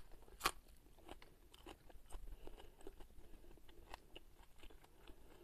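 A crisp bite into a raw green onion stalk about half a second in, followed by faint chewing with scattered small crunches.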